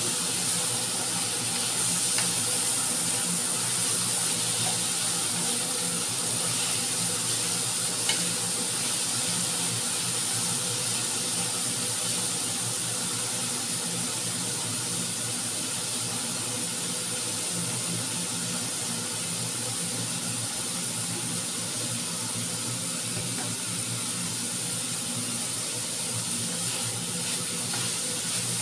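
Sliced carrots, greens and fish balls sizzling steadily in a frying pan, stirred now and then with a wooden spatula.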